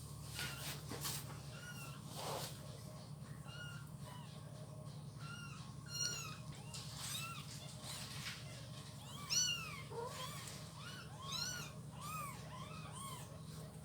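Kittens mewing over and over, many short high-pitched cries that come thicker in the second half. A steady low hum runs underneath.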